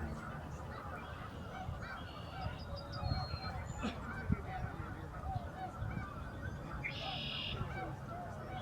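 A large flock of geese calling continuously: a dense, overlapping chorus of honks.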